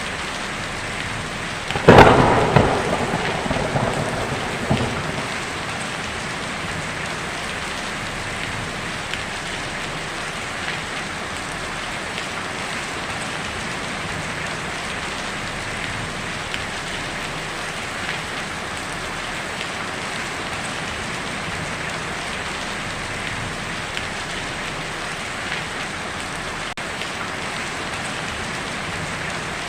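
Heavy rain falling steadily on a tin roof. About two seconds in there is a sharp, close thunderclap that rumbles away over the next few seconds.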